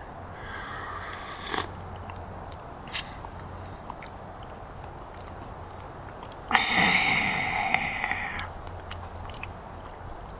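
A person chewing and crunching crunchy food. A louder crunching stretch of about two seconds starts around six and a half seconds in, with a few faint ticks around it.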